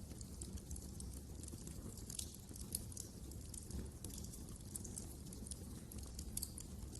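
Wood fire crackling in a fireplace: a dense scatter of small sharp pops and snaps over a low, steady rumble of the burning.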